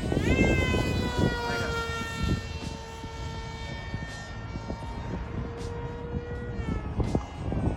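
Electric motor and pusher propeller of a foam-board RC model jet whining in flight. The pitch rises sharply at the start as the throttle goes up, holds steady, then dips about seven seconds in. Under it runs a low rumble with scattered knocks.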